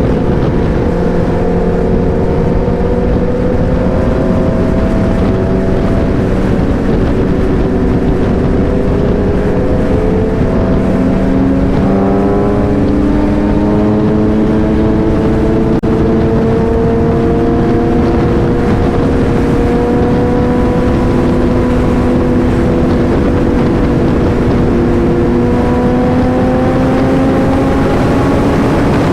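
Motorcycle engine under way, its pitch climbing slowly, then dropping about twelve seconds in at a shift and climbing again, over heavy wind rush on the helmet microphone.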